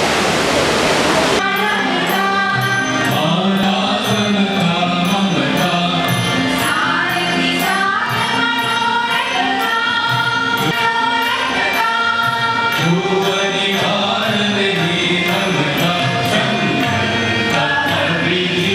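A rushing noise cuts off about a second and a half in, and music begins: voices singing together in a chant-like style, holding and moving between sustained notes.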